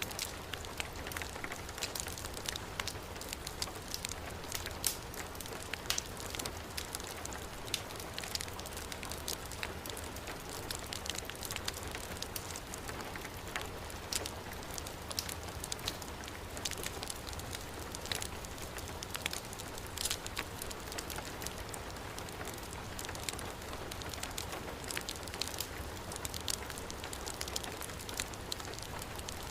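Heavy rain falling steadily together with a crackling wood fire in a fireplace: a continuous hiss of rain with frequent short, sharp crackles and pops scattered through it.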